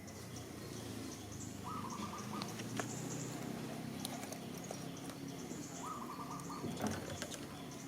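Two short, matching pulsing animal calls about four seconds apart, over a low steady hum with scattered clicks and taps.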